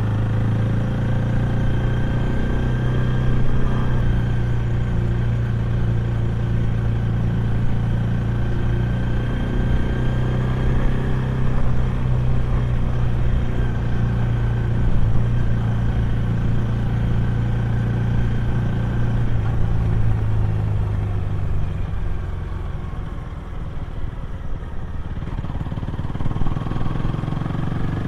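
Honda Rebel 250's single-cylinder engine and exhaust while riding, holding a steady note. About 20 s in the note drops and gets quieter as the rider eases off, and it picks up again near the end.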